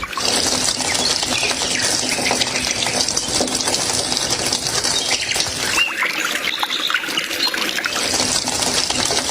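Water gushing steadily from a miniature hand pump into a small model pool, a continuous rushing splash that thins briefly in the second half.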